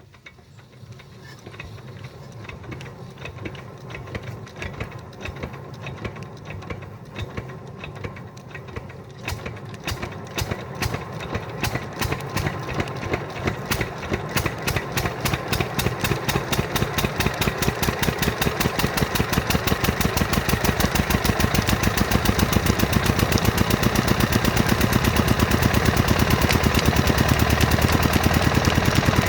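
Single-cylinder Lister 6 hp diesel engine starting after six months standing. Its beats come slowly and faintly at first, then quicken and grow louder as it picks up speed, settling into a fast, steady running beat near the end.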